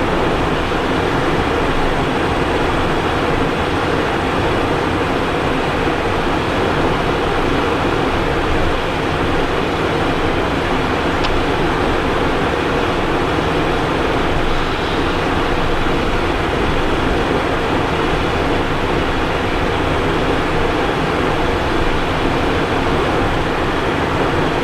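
Steady cockpit noise of a Cessna Citation Encore business jet in descent: airflow rushing over the airframe and the running of its twin turbofan engines, unchanging throughout.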